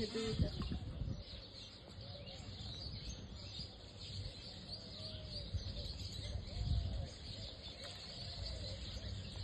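Faint short bird calls now and then over a low outdoor rumble, with louder bumps of rumble near the start and around two-thirds of the way in.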